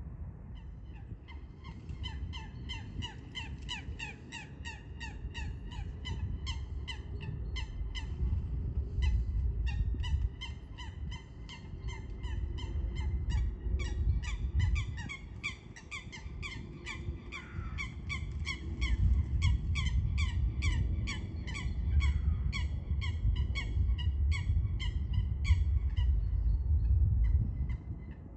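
A bird calling in a rapid, continuous run of short, harsh, repeated notes, several a second, with a brief pause partway through, over a low rumble.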